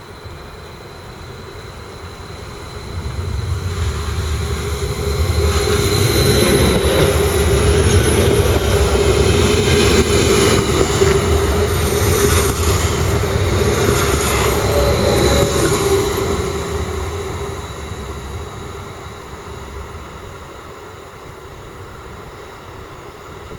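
A train passing by on the rails: the running noise builds over a few seconds, stays loud for about ten seconds, then fades away.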